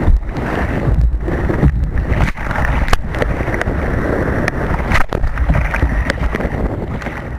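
Wind buffeting the microphone over the rush of surf and water around a kayak, with a few sharp knocks. The sound fades away at the very end.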